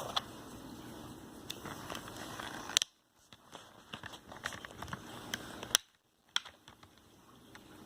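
Scattered clicks and crackles of plastic doll packaging being handled and pulled apart as the doll is freed, with one sharp click about three seconds in.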